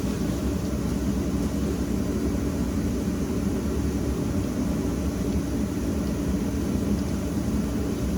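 A power tool running with a steady drone while cutting steel angle iron.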